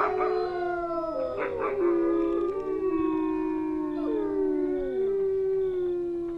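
A pack of wolves howling in chorus: several long howls overlap at different pitches, with a quick burst of yips about a second and a half in and one howl sliding down in pitch around four seconds in.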